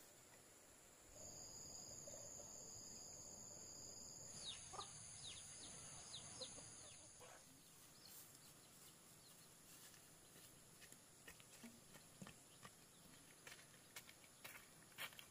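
Near silence with faint rural ambience: a steady high insect drone, and a quick run of short falling chirps from a bird starting about four seconds in. A few faint taps near the end.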